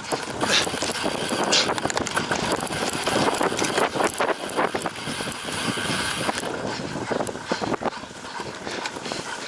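Bicycle rattling and clattering over rough ground, a dense run of small knocks, with wind noise on the microphone.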